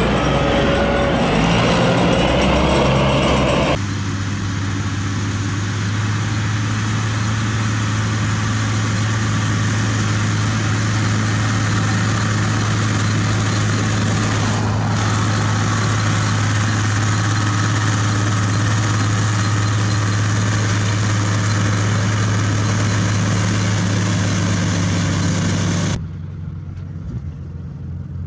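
Tractor engine running steadily while driving a hay baler, with machinery clatter over a strong low engine hum. The sound changes abruptly about four seconds in and again near the end, where it drops quieter, as clips of different machines follow one another.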